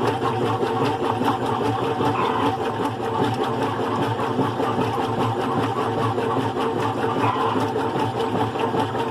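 GE Profile agitator washing machine running steadily on its single-speed motor, a constant mechanical hum with a fine rapid ripple.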